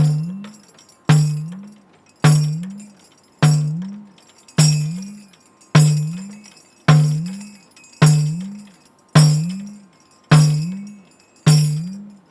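Ganjira (headed tambourine with jingles) played with the din bass stroke, the index finger striking the head near the steel ring: eleven slow, even strokes about one a second, each a deep booming note that bends slightly up in pitch as it rings, with a jingle shimmer on top.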